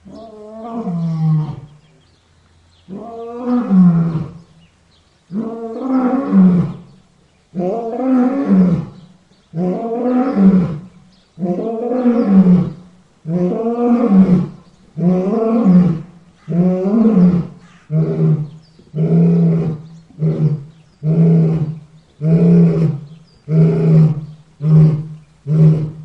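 Lion roaring in a bout of repeated calls. The early roars are long and widely spaced, then they grow shorter and come faster, about one grunt a second near the end.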